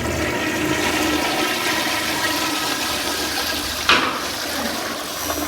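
Toilets flushed together on a countdown: a steady rush of water running down the bowls, with one sharp knock about four seconds in.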